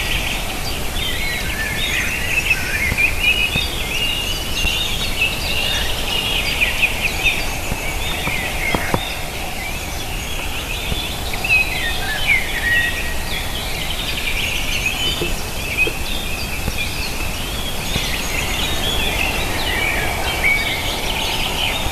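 Many small birds calling and chirping at once, a dense overlapping chatter over a steady background hiss, with a single sharp click about nine seconds in.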